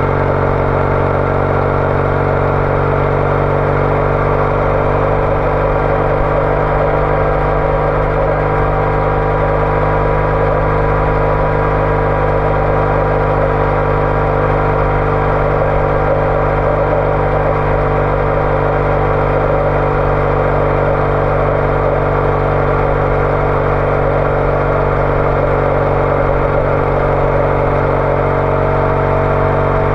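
Triumph Bonneville T214's parallel-twin engine running through a TOGA aftermarket exhaust, cruising at a steady speed. The engine note sags slightly midway and rises a little near the end.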